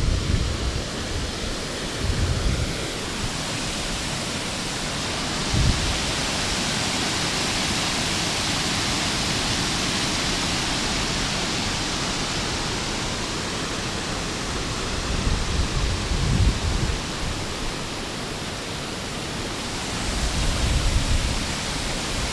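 Steady rush of running water, with low rumbles of wind on the microphone now and then.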